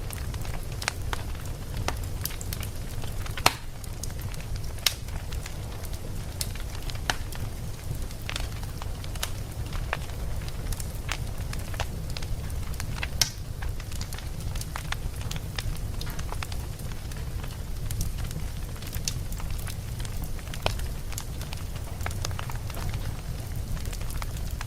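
Wood fire crackling and popping over a steady low rumble of burning. Sharp pops come at irregular intervals, the loudest about three and a half seconds in and again about thirteen seconds in.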